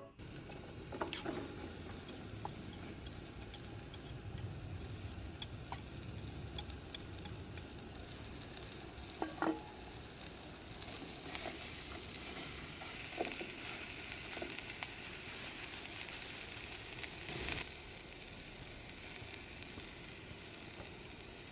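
Food sizzling in a pan with a steady hiss and small crackles, and a few light knocks of a utensil against the pan, the loudest about nine and a half seconds in and another near the end.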